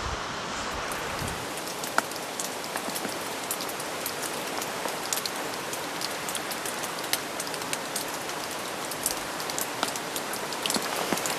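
Steady rain falling, with many separate drops ticking sharply throughout.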